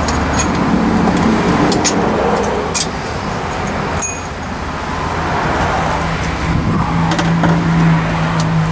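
Scattered metallic clinks of hand tools and bolts while the starter is being unbolted, over a steady drone of motor-vehicle noise. A steady engine-like hum joins about six seconds in.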